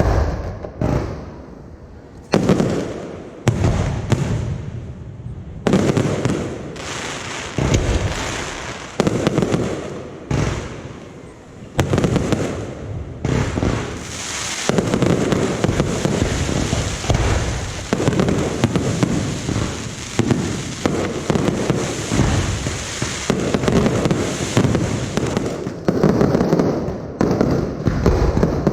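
Aerial fireworks shells bursting overhead: separate deep bangs every second or two. About halfway through these give way to a long stretch of dense, continuous bursting, then separate bangs return near the end.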